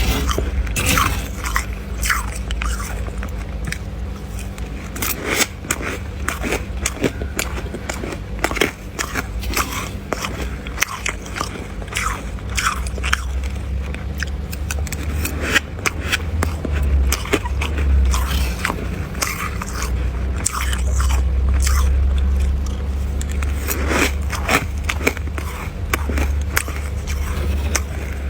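A person biting into and chewing freezer frost, with many crisp, irregular crunches close to the microphone. A steady low hum runs underneath.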